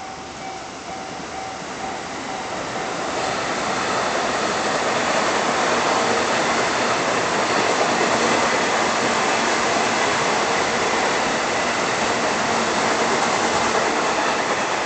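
Train passing through a railway level crossing, its running noise growing louder over the first four seconds and then holding steady and loud.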